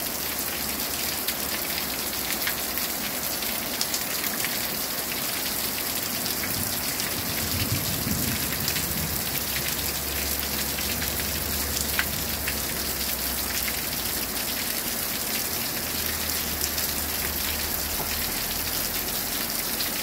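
Torrential thunderstorm downpour: heavy rain falling steadily with a dense patter of drops, and water spilling over an overflowing roof gutter. A low rumble sits underneath through the middle stretch.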